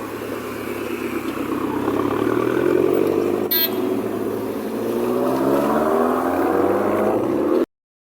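A sports car's engine accelerating hard, its note climbing steadily in pitch over several seconds, over street noise. It cuts off suddenly near the end.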